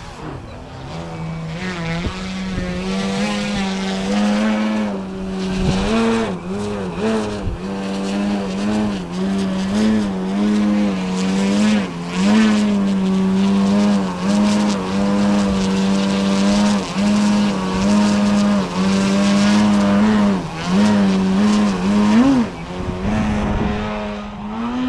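Electric motor and 18x6 wooden propeller of a 67-inch Pilot Extra 330SC RC aerobatic airplane running, a loud steady propeller drone whose pitch dips and rises again and again.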